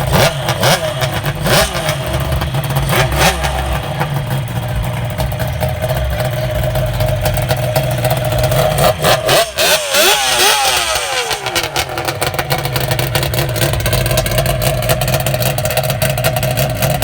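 Kawasaki 350 two-stroke triple engine in a custom mini bike being revved: sharp throttle blips in the first few seconds, a long rev up and back down about ten seconds in, then running steadily.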